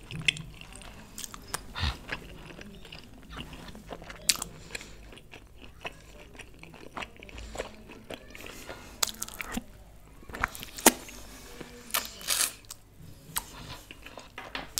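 Close-miked chewing and biting of dahi mutton pieces eaten by hand: irregular wet mouth clicks and smacks.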